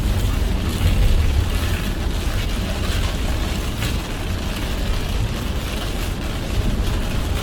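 Car driving on a wet road in heavy rain: a steady low rumble of road and engine noise under an even hiss of rain and tyre spray.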